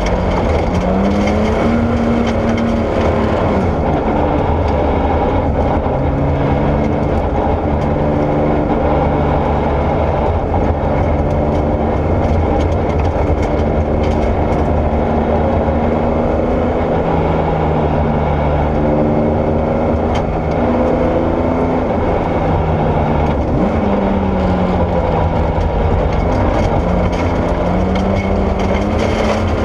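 Porsche 964 rally car's air-cooled flat-six engine driven hard on gravel. The engine note climbs and falls again and again through gear changes and lifts, over a steady rush of tyre and gravel noise.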